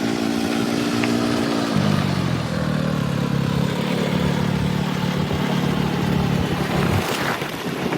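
Motorcycle engine running on the move, a steady note that drops to a lower pitch about two seconds in and holds there, over a rush of wind noise.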